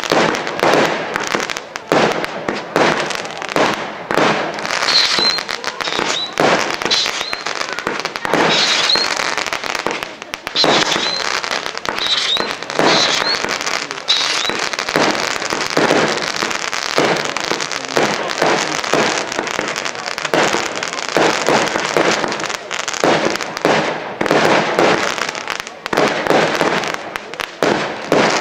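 Fireworks display going off continuously: a rapid, dense run of bangs and crackles from aerial shells, one after another with no let-up. Short high-pitched chirps come through a few times between about five and fourteen seconds in.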